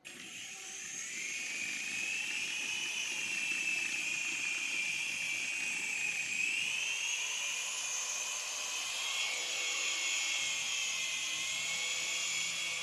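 Small electric motors and propellers of a toy infrared remote-control airplane running: a high whine that starts suddenly, builds over the first couple of seconds, then wavers up and down in pitch.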